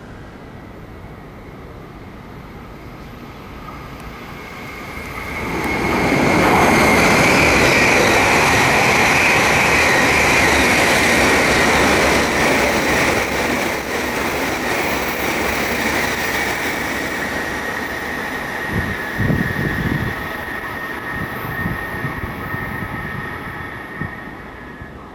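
Tohoku Shinkansen coupled train set passing through the station at speed without stopping: a rushing noise builds over about two seconds, stays loud for several seconds with a steady high whine, then slowly fades away.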